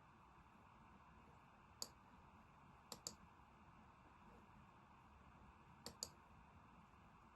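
Computer mouse clicking over a faint hiss: one single click, then two quick double-clicks.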